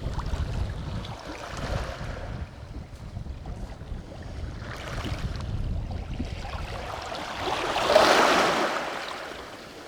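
Small sea waves washing onto a stony beach, with wind rumbling on the microphone. One wave rushes in, loudest about eight seconds in, then fades away.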